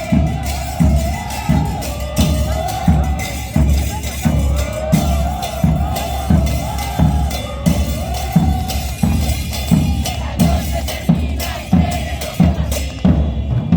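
Carnival drums beating a steady rhythm of about two strokes a second, with a crowd singing along in unison.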